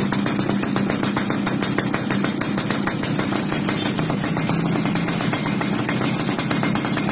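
Yamaha F1ZR's single-cylinder two-stroke engine idling steadily through an aftermarket racing exhaust, with a quick, even pulsing beat.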